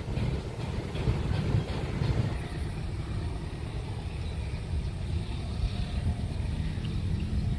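Low, steady rumble of passing vehicles.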